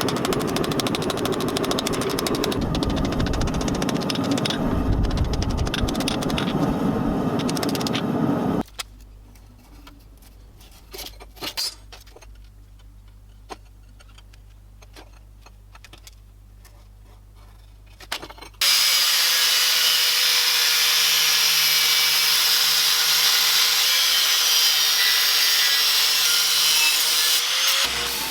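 Workshop power-tool noise on knife steel, in cut segments: a loud rough grinding noise, then about ten seconds of quiet low hum with scattered clicks, then a loud steady grinding hiss with a faint whine that cuts off near the end.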